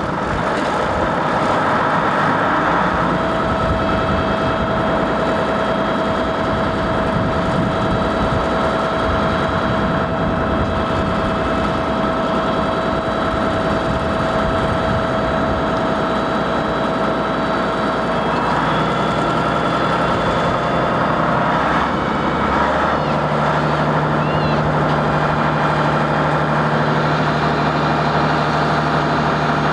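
Avro Vulcan bomber's four Rolls-Royce Olympus turbojets running steadily at ground idle, a loud roar with steady whining tones. The whine shifts about two-thirds of the way through, and a lower steady hum joins near the end.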